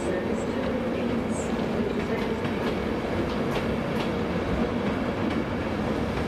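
Mark 4 coaches of an InterCity 225 train rolling past along a platform. There is a steady rumble of steel wheels on the rails, with light, irregular clicks as the wheels cross rail joints.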